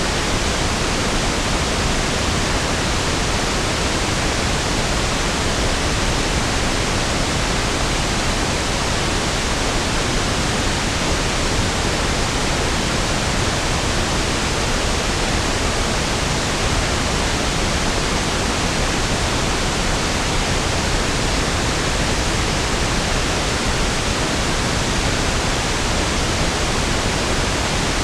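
Steady pink noise: an even, unchanging hiss with equal energy per octave, softer and deeper than white noise.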